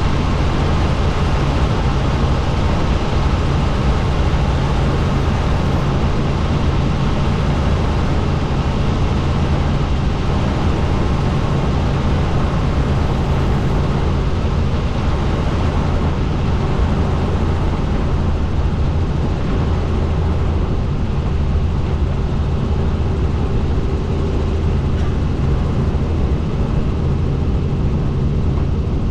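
Helicopter in flight: a loud, steady drone of rotor and engine with a low hum underneath.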